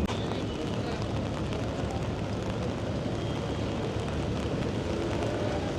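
Steady outdoor ambience of falling rain and wet city noise, an even hiss with no distinct events.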